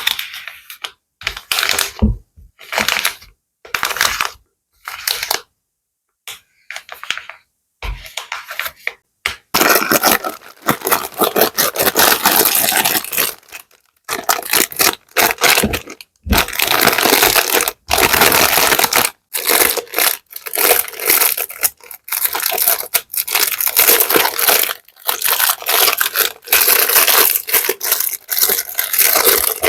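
Plastic bag being rustled and crinkled by hand: separate short crackling handfuls at first, then near-continuous crinkling from about ten seconds in.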